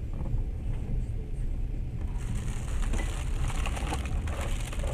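Moving train running: a steady low rumble of the rolling carriage, with a higher hiss and faint clicks coming in about halfway through.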